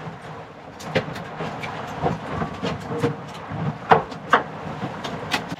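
Wind buffeting the microphone on a small boat, with irregular knocks and clicks, the loudest about four seconds in.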